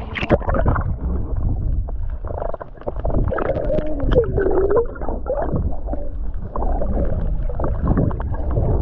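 Muffled sea water sloshing and gurgling over a waterproof camera held in or just under the waves, with a heavy low rumble and irregular crackles.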